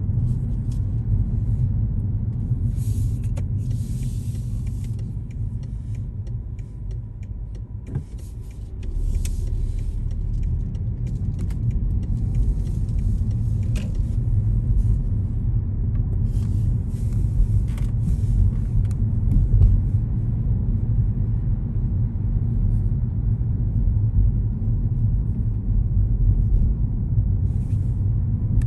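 Steady low rumble of a car driving, from its engine and tyres on the road. It eases off briefly about a third of the way through, then picks up again.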